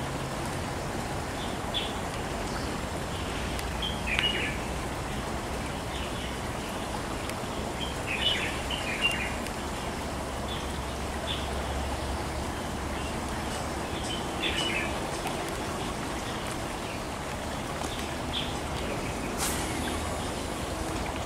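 Small birds chirping in short high calls every few seconds over a steady outdoor background hiss, with one sharp click near the end.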